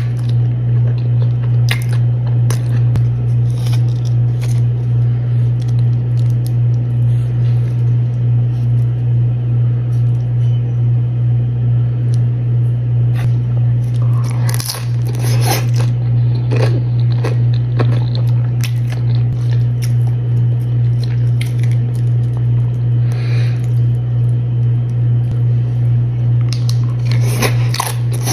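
Close-up eating sounds: crunchy bites and chewing of tortilla chips with a Chipotle burrito bowl, with the loudest bursts of crunching about halfway through and near the end. Under it all runs a loud, steady low hum with a slow, even pulse.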